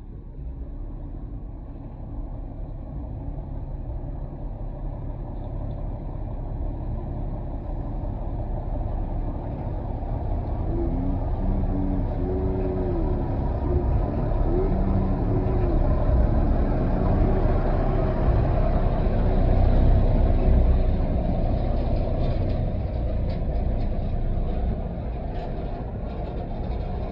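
Tata truck's diesel engine running with a steady low rumble, growing gradually louder until about twenty seconds in, then easing slightly.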